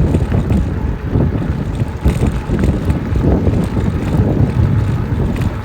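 Wind buffeting the microphone of a moving e-bike rider, a loud, uneven low rumble.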